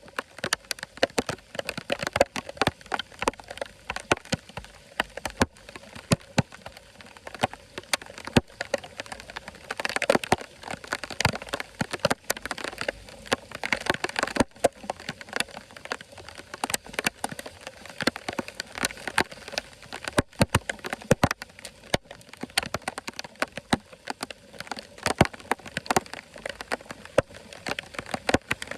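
Dense, irregular tapping and splashing of water, like rain pattering on a hard surface, with a somewhat busier stretch around ten to fifteen seconds in.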